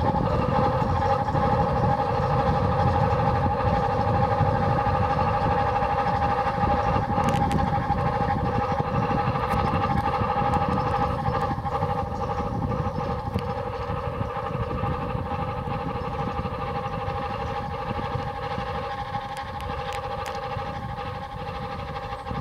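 Electric rack-railway train of the Rhune line running along the mountainside: a steady motor whine over a low rumble of wheels and running gear, slowly fading in the second half as the train moves off.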